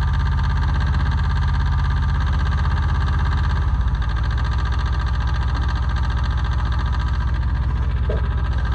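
Yanmar YM146 tractor's two-cylinder diesel engine running steadily with an even pulse, its note shifting slightly about four seconds in.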